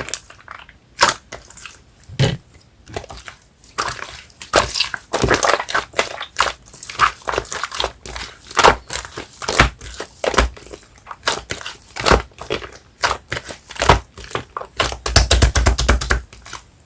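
Hands squishing, pressing and stretching a thick yellow slime mixed with clay: a steady run of wet sticky pops and crackles, with a quick rattle of clicks near the end.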